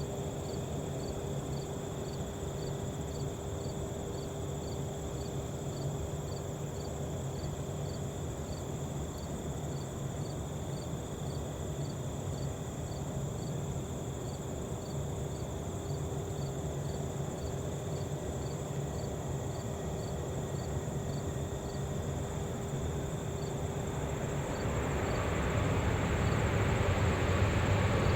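Crickets chirping in a regular beat over a faint steady hum. From about four seconds before the end, the noise of the Air Canada Boeing 737 MAX 8's CFM LEAP-1B turbofans on approach rises steadily as the jet comes closer.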